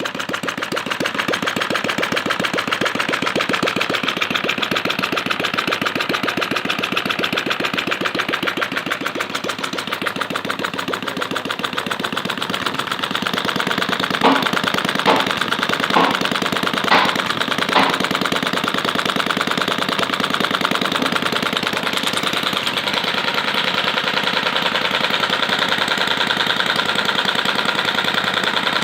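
Model Atkinson-cycle petrol engine running steadily with a rapid, even firing beat. Around the middle come five louder sharp cracks, about a second apart.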